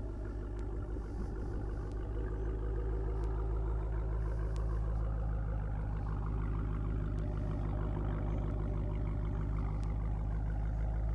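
2017 Dodge Challenger Scat Pack's 392 (6.4-litre) Hemi V8 idling steadily, heard from behind the car near its exhausts.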